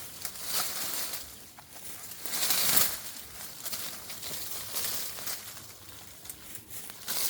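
Leafy apple branches rustling and crackling as storm-broken limbs are pulled apart, in uneven bursts with the loudest about two and a half seconds in.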